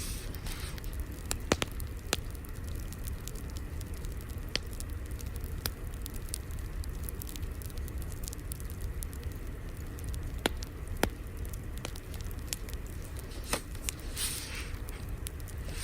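Wood fire crackling: a steady low rumble with frequent, irregular sharp pops and snaps, and a short hiss about 14 seconds in.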